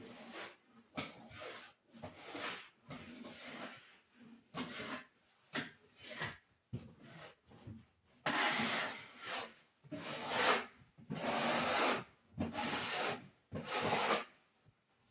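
Repeated back-and-forth rubbing strokes against a painted wall surface, a rasping scrub that gets louder and longer about halfway through.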